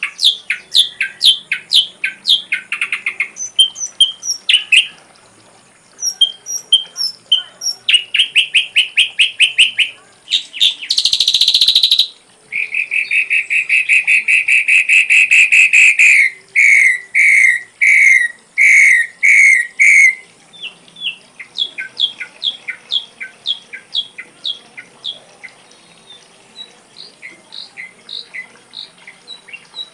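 Ashy drongo singing a varied run of phrases: rapid repeated notes, a short harsh buzzy burst, a long fast trill, then a series of loud downslurred whistles, trailing off into softer repeated notes.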